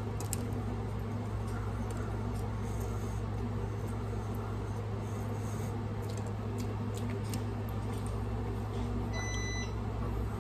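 Faint clicks of someone chewing food with mouth closed over a steady low hum. A short high electronic beep sounds about nine seconds in.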